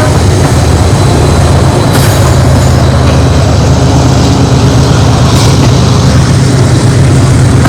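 Double-stack freight train rolling by, a loud, steady, heavy rumble.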